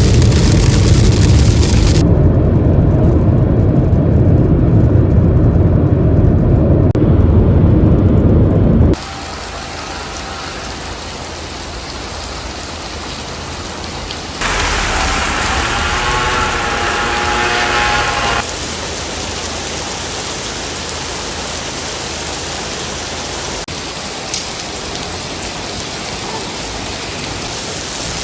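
Heavy rain in a series of clips. For the first nine seconds a loud deep rumble, then a steady hiss of rain, with a wavering pitched sound over it for about four seconds near the middle.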